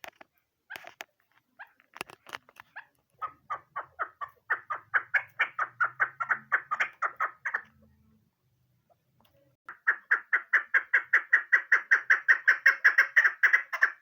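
Female chukar partridge calling: a few scattered notes, then two long runs of rapid, evenly repeated chuck notes, several a second, each run building in loudness.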